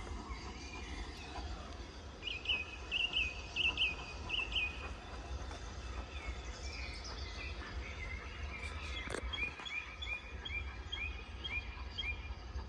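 Small birds chirping: a quick run of high, close-spaced notes about two seconds in, then later a slower series of short repeated notes, over a steady low rumble.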